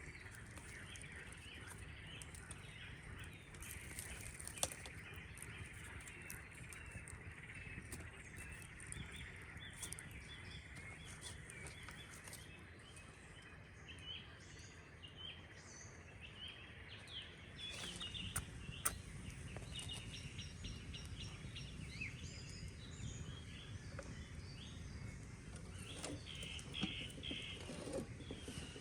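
Small birds chirping over a steady outdoor background hush, with the chirps growing busier in the second half and a few sharp clicks.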